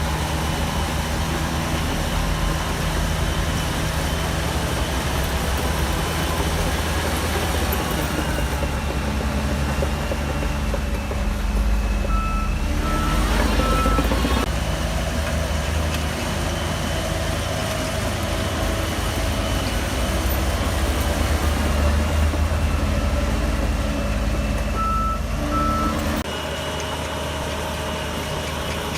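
Shantui DH17C3 bulldozer's diesel engine running under load, its level rising and falling as it works. A reversing alarm beeps in a short run about halfway through and twice more near the end.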